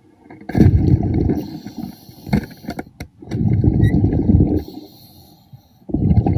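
A diver's exhaled air bubbling out underwater in three bursts, each about a second long, coming about every two and a half seconds, with a couple of sharp clicks between them.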